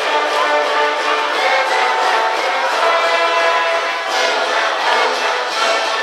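High school cheering brass band playing a cheer tune, with brass holding chords and a few accented hits about four seconds in.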